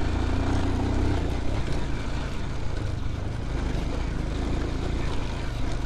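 Motorcycle engine pulling steadily in second gear over a rough off-road track, a low rumble with wind and road noise over it.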